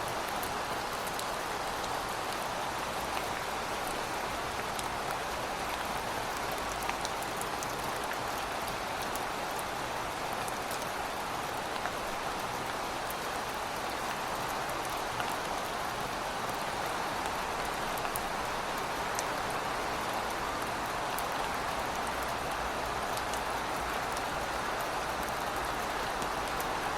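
Steady heavy rain, with scattered drops ticking on hard surfaces.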